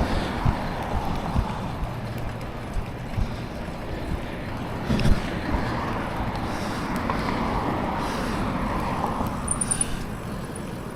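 Bicycle riding noise, tyre rumble and wind rushing over a neck-mounted action camera's microphone, with a few low knocks from the bike, the loudest about five seconds in.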